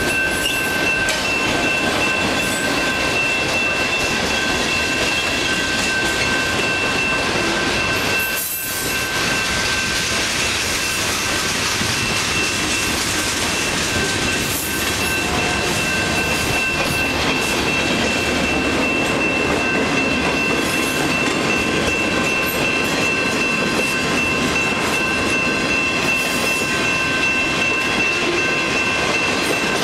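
Train cars rolling past on the rails, a steady loud rumble of wheels on track with a continuous high-pitched squeal from the wheels, and a brief lull about eight seconds in.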